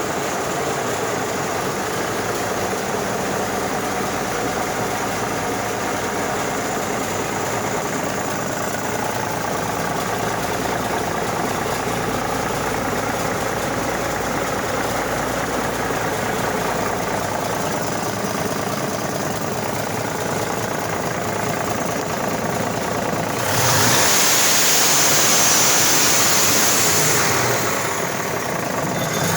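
Cummins Big Cam NTA 855 six-cylinder 14-litre diesel running on test, steady at idle. Near the end a louder hissing rush lasts about four seconds, then the engine settles back.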